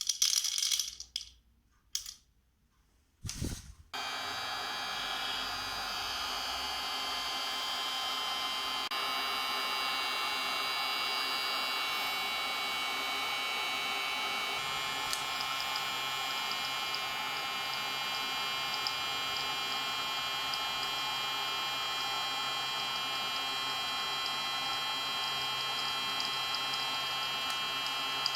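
Hot-air popcorn maker with a replacement motor and a 1000 W heating coil, switched on for a test run: a few short rattles of kernels going into the chamber. Then, about four seconds in, the blower motor starts and runs with a steady whir and hum.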